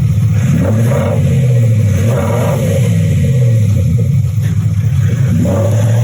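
Mercedes-Benz GLE Coupe (C167) diesel fitted with an Enginevox active sound system, its electronic exhaust note being revved up and down about three times.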